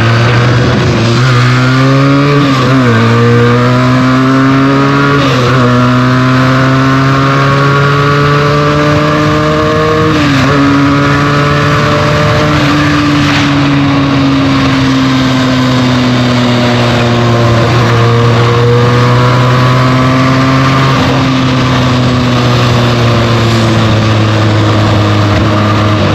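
Benelli TNT 300's 300 cc parallel-twin engine through its stock exhaust while riding: the pitch climbs under throttle and drops sharply at gear shifts three times in the first half, then eases off and picks up again.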